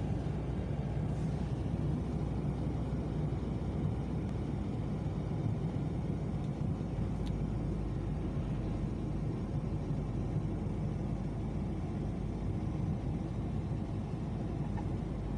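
Steady low rumble of a car on the road: engine and tyre noise while driving.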